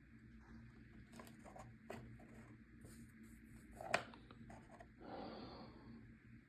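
Faint clicks and knocks of parts being handled, with one sharper click about four seconds in and a short soft rustle a second later.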